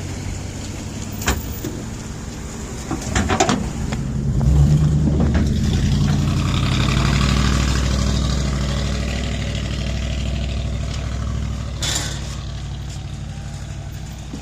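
A motor vehicle's engine running as it drives onto a ferry, getting louder about four seconds in and then easing off, with a few sharp knocks along the way.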